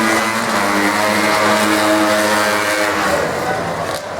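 Racing engines at full throttle down a dirt drag strip, their note climbing and stepping in pitch, then fading away about three seconds in.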